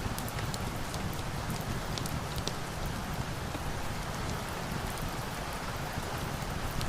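Steady rain falling, with a low rumble underneath and scattered sharp ticks now and then.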